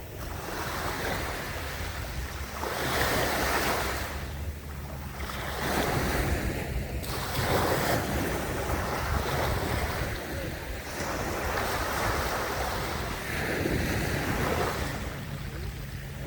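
Sea waves washing ashore in surges that swell and fall back every few seconds, over a low rumble of wind on the microphone.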